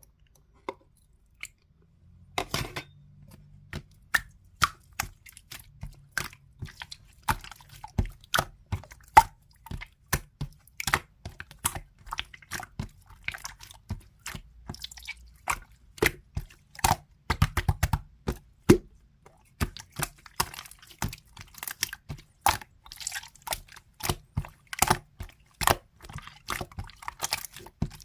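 Slime being squeezed, pressed and stretched by hand, making a quick irregular run of wet clicks and pops. It starts after about two seconds of near quiet.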